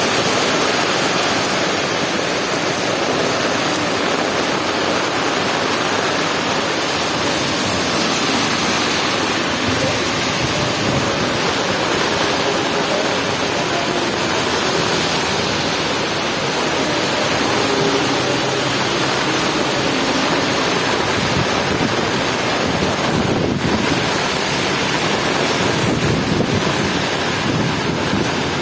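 Heavy rain pouring down steadily, a loud dense hiss with no let-up.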